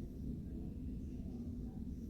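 Steady low background hum, with no distinct event.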